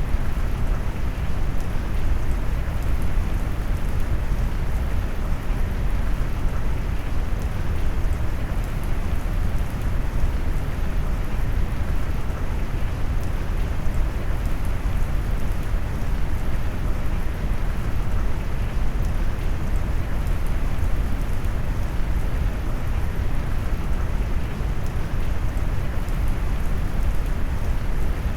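Steady rain noise blended with brown noise: a deep, even rushing that is strongest in the low end, with a faint patter of drops above it and no change throughout.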